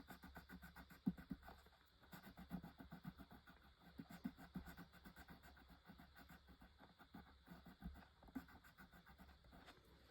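Faint, rapid scratching of a colouring tool scribbling back and forth on paper, filling in a letter.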